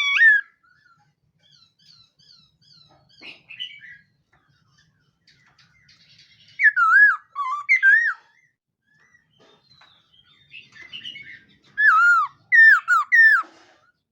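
Khướu mun laughingthrush singing: loud, slurred whistled phrases at the start, around the middle and near the end, with softer short notes in between.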